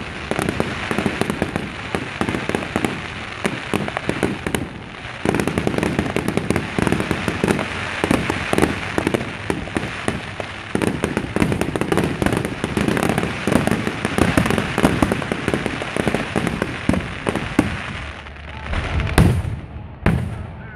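Fireworks barrage going off continuously: a dense, rapid crackling of many small pops, with two or three heavier booms near the end.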